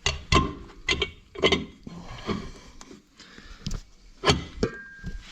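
Metal cover knocking and clinking as it is worked into place on a Fiat 640 tractor's disc brake housing: a series of irregular sharp knocks.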